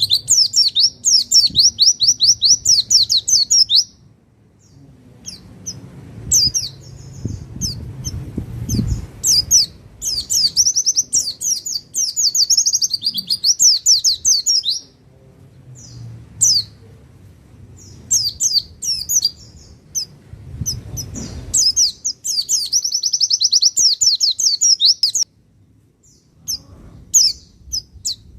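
White-eye (pleci) singing: long phrases of rapid, high chattering trills lasting several seconds, separated by pauses with scattered single chirps. A faint low rumble sits under some of the pauses.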